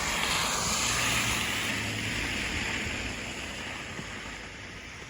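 Wind gusting over the phone's microphone in a snowstorm, a rushing noise that swells in the first second or two and then eases off.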